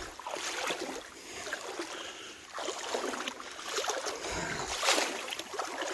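Water sloshing and splashing around legs wading knee-deep through floodwater, in uneven surges with a louder splash about five seconds in.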